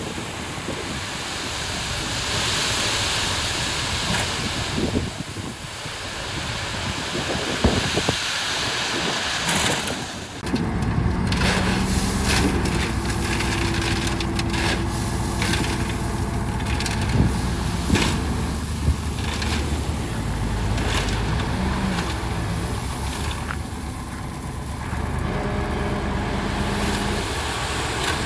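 Wind buffeting the microphone at first. From about ten seconds in, a heavy earthmoving machine's engine runs steadily, with repeated metallic clanks and knocks.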